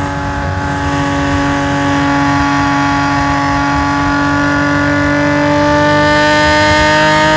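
Nissan S20 twin-cam straight-six of a race-tuned Hakosuka Skyline GT-R running hard through a stainless exhaust, loud throughout. Its note dips briefly at the start, then rises slowly and steadily as the revs build under load.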